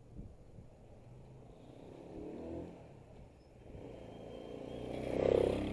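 A motor vehicle's engine drawing near and passing. It swells briefly about two seconds in, then grows to its loudest about five seconds in before fading.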